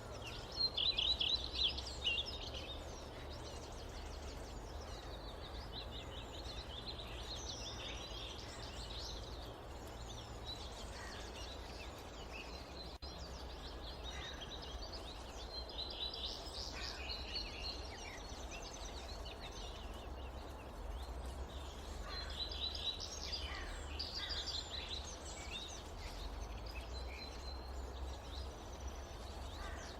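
Forest birds singing: clusters of quick, high chirping notes that come back every few seconds, the loudest about a second in. Underneath runs a steady low rumble and a soft even hiss of forest ambience.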